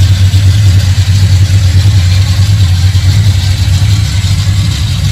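The 430-horsepower V8 of a 1964 Chevy II Nova street car idling, loud and steady with a fast, even pulse.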